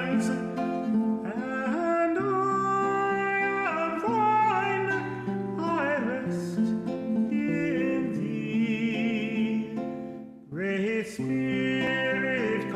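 Hymn sung by a tenor voice with acoustic guitar accompaniment, long held notes scooping into pitch. The music breaks briefly about ten and a half seconds in, then the next phrase begins.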